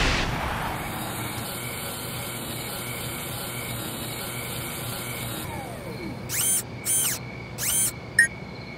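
Sci-fi sound design for an animated film: a whoosh swells and fades in the first second, then a steady electronic hiss with a faint pulsing tone. About six seconds in, a falling tone is followed by three short mechanical whirs of a motorised security camera, and a short electronic beep comes near the end.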